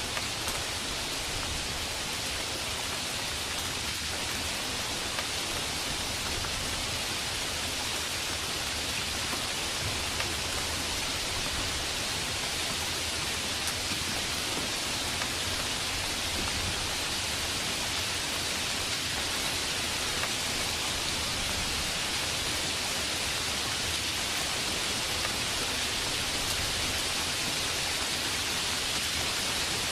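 Heavy rain falling steadily: an even, unbroken hiss, brightest in the upper range, with a few slightly louder drop hits.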